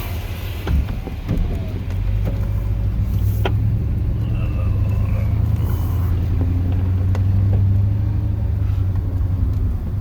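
Chevrolet plow truck's 8.1-litre Vortec big-block V8 running, a steady low rumble that gets louder about two seconds in, with a few light knocks.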